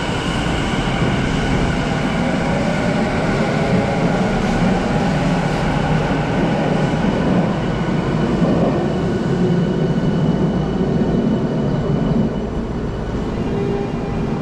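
Electric train running through the station: a steady, loud rumble with several steady high tones above it, easing slightly near the end.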